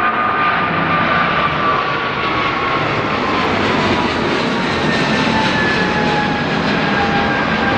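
Jet airliner passing with its engines running loudly: a steady rush with a whining tone that slowly falls in pitch.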